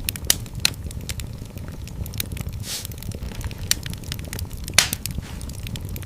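Wood fire burning in a fireplace: a steady low rumble under constant sharp crackles, one louder pop near the end and a brief hiss in the middle.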